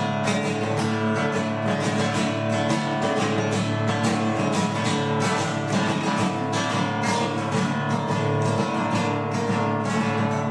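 Acoustic guitar strummed in a steady rhythm, background music with no voice.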